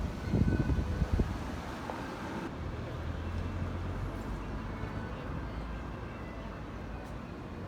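Wind buffeting the microphone in gusts for about the first second, then a steady low rumble of city traffic.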